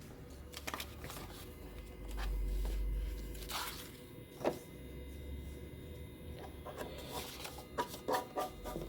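Sheets of paper being handled: scattered light rustles and taps, with two stretches of low rumbling bumps.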